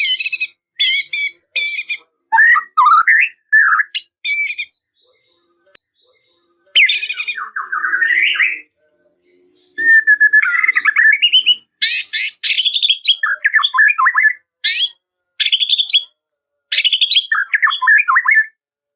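White-rumped shama (murai batu) singing a fast, varied song of short phrases, with sharp high notes, trills and whistled slurs that rise and fall. The song breaks off for about two seconds a third of the way through, then starts again.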